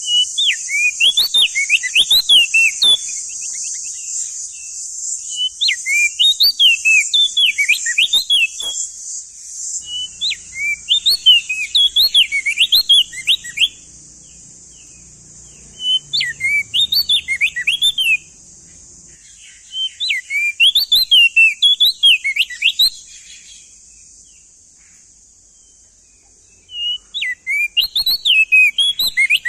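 Male opior jambul (crested white-eye) singing in six loud bursts of fast, rising and falling whistled phrases, each two to four seconds long with short pauses between, over a steady high hiss.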